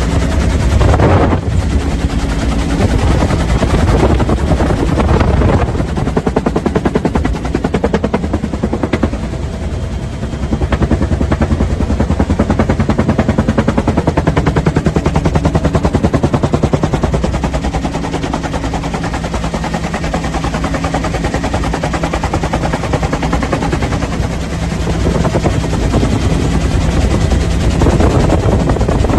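Bell UH-1 Huey helicopter's two-blade main rotor beating with a rapid, even blade slap over the steady drone of its engine.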